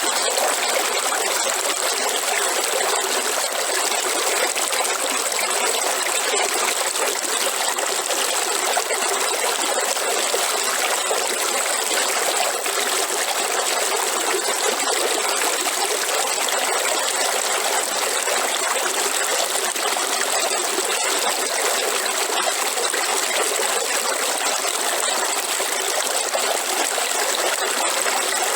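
A river or stream running and trickling over rocks, a steady rushing of water.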